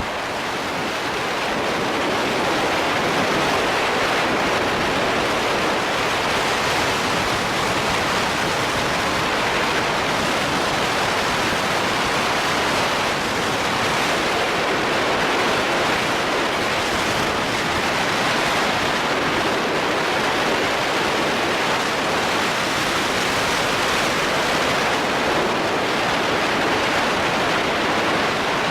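Steady rushing road and wind noise of a car driving along, even and unbroken.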